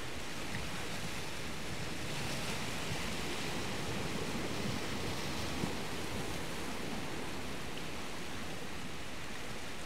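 Steady, even rushing water noise with no distinct events.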